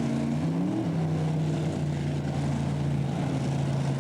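Pulling tractor's engine running loud and steady; its pitch climbs briefly just before a second in, then holds level.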